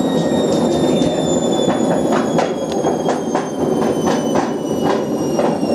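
Whirlpool WWDC 7210/1 washing machine drum spinning with a heavy rumble and repeated sharp knocks, two to three a second, under a high motor whine that slowly falls in pitch. The owner thinks the noise could come from worn drum suspension.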